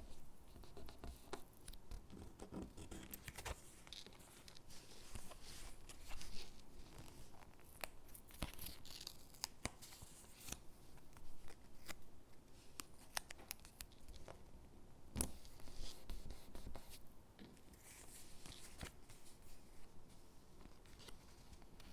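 Stickers being peeled off their backing sheet and pressed onto paper gingerbread cutouts: soft peeling and paper rustling, with irregular small taps and clicks.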